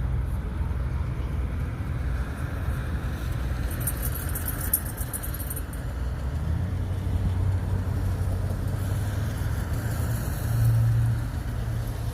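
Steady low rumble of a vehicle engine, with a brief light jingle about four seconds in and a short louder swell of hum near the end.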